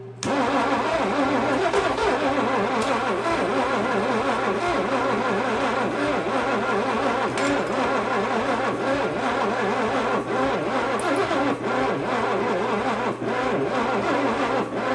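Starter cranking a 1956 Chevy 265 small-block V8 at length, the engine turning over in a fast, even rhythm without catching. The owner suspects the ignition timing is still off.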